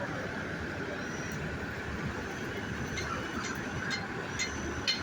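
A train running, a steady rumble with light metallic clicks coming in from about three seconds in.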